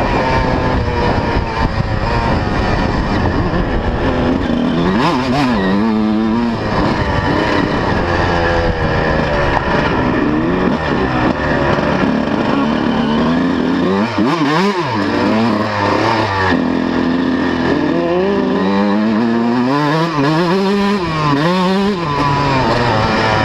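125 cc two-stroke motocross bike engine being ridden, revving up and dropping back over and over, its pitch rising and falling every few seconds.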